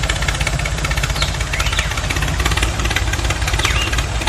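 An engine running steadily with a rapid, even knock, its mechanical noise continuous throughout. A few brief high chirps sound over it, around one and a half seconds in and again near the end.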